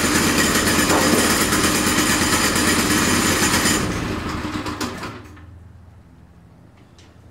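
Small gasoline engine of a portable bandsaw mill running steadily, then shut off about four seconds in and running down over about a second. A few faint clicks follow.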